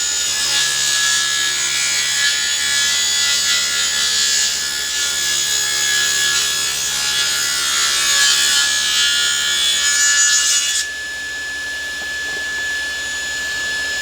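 Table saw ripping a board on edge in a resaw pass, with the blade raised about 1.5 inches. The cutting noise stops about 11 seconds in, and the saw keeps running with a steady whine.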